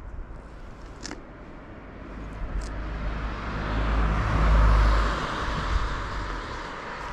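A vehicle passing close by: its noise swells over a few seconds, peaks a little past the middle, then fades away. A short click comes about a second in.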